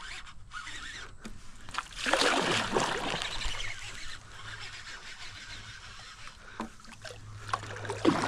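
Water splashing as a hooked Australian bass thrashes at the surface, loudest about two seconds in, followed by a few small clicks and a low steady hum near the end.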